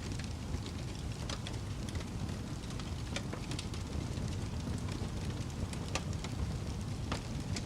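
Wood fire burning in a fireplace, a steady low rumble of flames with irregular sharp crackles and pops.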